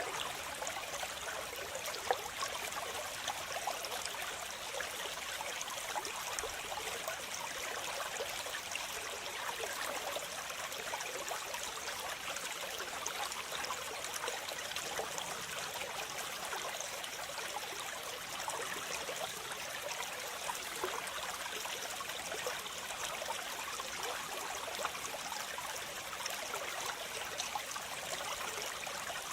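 Waterfall: water falling and splashing in a steady, even rush with a light trickling texture, most of its sound in the middle and upper range with little low rumble.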